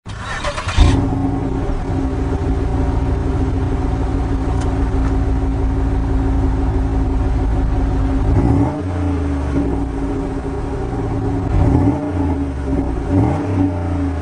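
Car engine catching after a brief crank and then running steadily, with a lower rumble that rises and falls a few times in the second half. The engine is a Pontiac Grand Prix GXP's 5.3 L LS4 V8 started at −12 °F.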